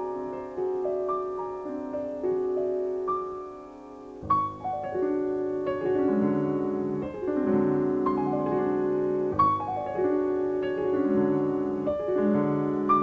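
Solo piano playing classical music: a quiet, thin passage that fades down, then fuller chords with deep bass notes coming in about four seconds in and continuing.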